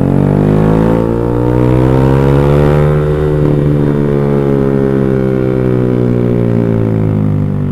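Motorcycle engine running through an X1 Speed Pro One aftermarket exhaust with a fully packed silencer, under way. The pitch climbs for about the first three seconds, then eases slowly down as the throttle comes off.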